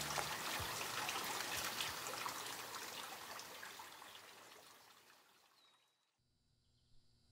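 Running, trickling water that fades out steadily to silence about six seconds in, followed by a faint steady hum.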